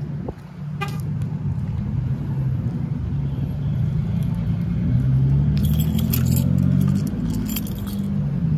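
A car engine running steadily, with a brief click about a second in and keys jingling twice in the second half.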